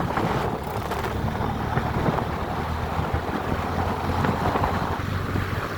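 Motorcycle engine running steadily while riding, with wind noise buffeting the microphone.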